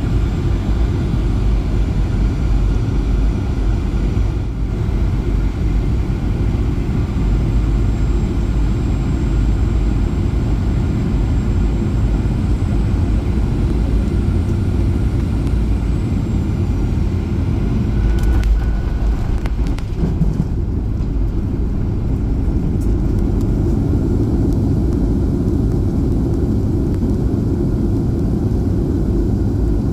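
Steady, loud low rumble of a Boeing 737-800's engines and airflow heard from inside the passenger cabin, with a few brief clicks about two-thirds of the way through.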